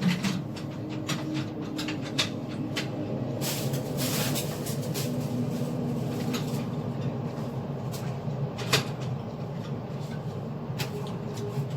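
Scattered knocks and clicks of things being handled, over a steady low hum, with a short hiss about four seconds in and one sharper knock near the end.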